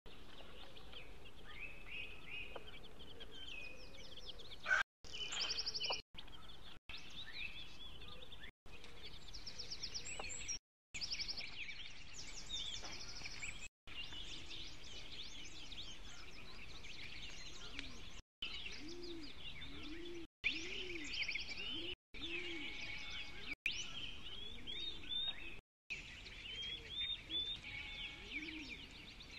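Birds chirping in a steady background chorus of short, quick calls, broken several times by brief moments of silence.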